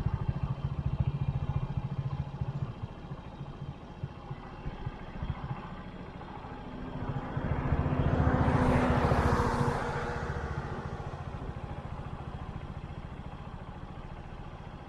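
Motorbike engine idling while stopped by the road. A passing vehicle grows louder from about six seconds in, peaks around nine seconds, then fades away.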